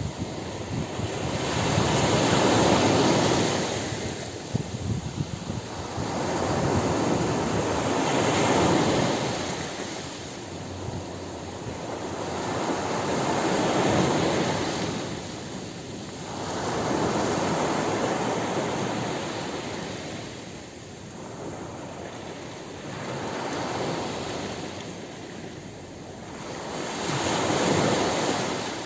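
Ocean surf on a beach: waves wash in and draw back in about six slow surges, one every five seconds or so.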